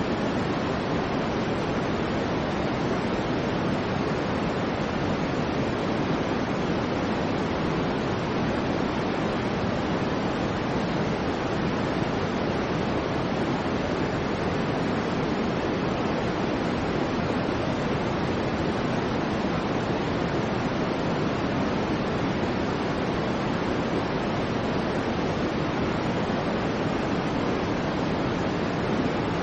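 Soft white noise for baby sleep: a steady, even rushing hiss with no swells, breaks or changes. It is fuller and darker than a bright hiss, with little in the highest range.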